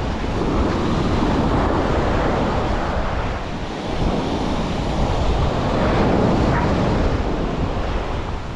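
Sea waves breaking and washing up on a beach, swelling and easing twice, with wind buffeting the microphone as a steady low rumble.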